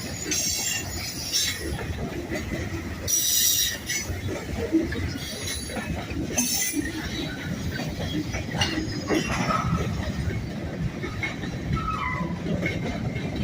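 Model railroad train running on a layout: a continuous rumble of running with several brief high-pitched bursts, the strongest about three seconds in.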